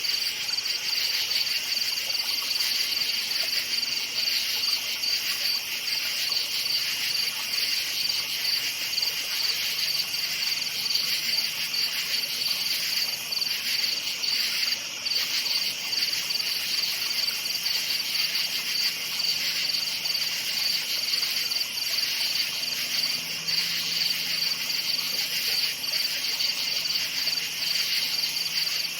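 A night chorus of crickets chirping steadily and without a break, in a dense high-pitched trill with two pitches. A faint low hum sits underneath, growing a little stronger near the end.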